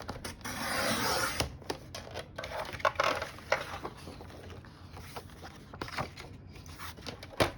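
Cardstock being cut and handled: a scraping cut lasting about a second near the start, then paper rustling with scattered small clicks and taps.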